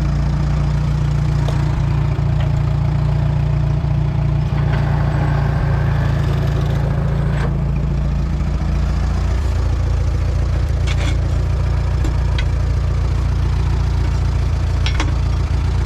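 Allis-Chalmers WD tractor's four-cylinder engine running steadily at idle, its note shifting slightly about nine and a half seconds in. A few short metallic clicks sound over it in the second half.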